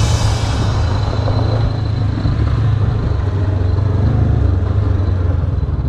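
Honda CB500X motorcycle's parallel-twin engine running at a steady pace while under way.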